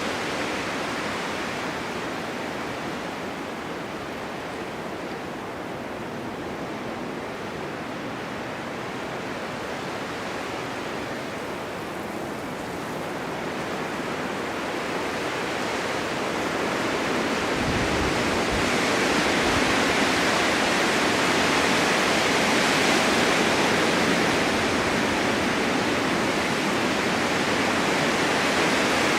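Blizzard wind driving snow: a steady rushing noise that swells into a stronger, brighter gust about halfway through, with a brief low rumble just before it peaks.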